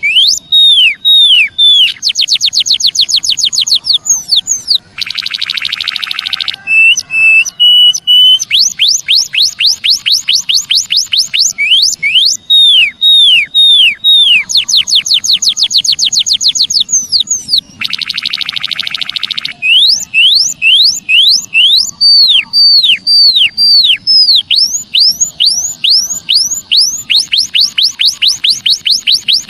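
White-headed munia song: series of high, downward-sliding whistles, some in quick runs. The whistles are broken twice by a harsh buzzing rattle, about five seconds in and again about eighteen seconds in.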